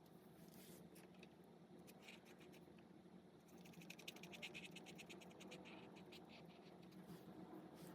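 Faint scratching of an alcohol marker's nib on coloring-book paper, with a run of quick back-and-forth coloring strokes in the middle.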